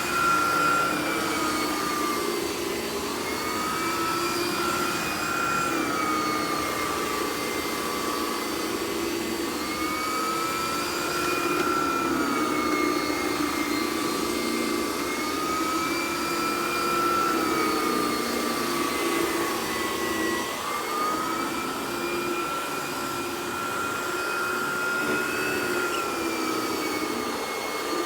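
Miele S147 canister vacuum running with a Vacuflo T21 turbo nozzle on carpet: a steady airflow noise with a high whine whose pitch slowly rises and falls every few seconds. The nozzle is a little loud, which the owner puts down to a bearing that probably needs servicing.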